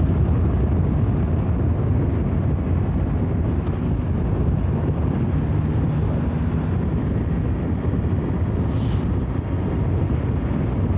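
Motorcycle riding at road speed: a 2021 BMW S1000XR's inline four-cylinder engine drones steadily under heavy wind rush on the microphone.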